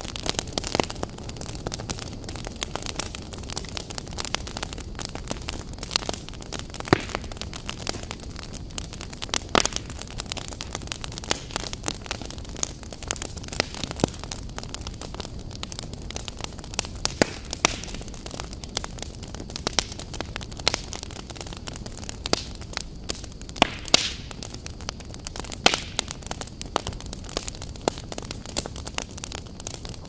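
Wood logs burning in a fireplace, crackling with frequent irregular sharp pops over a steady hiss of flame.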